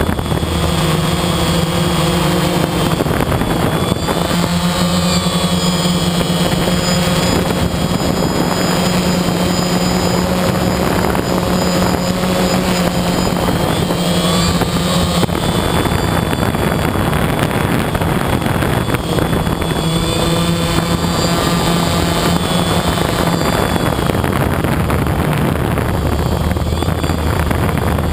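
Quadcopter's electric motors and propellers whirring in flight: a steady hum whose tones strengthen and shift now and then as the throttle changes.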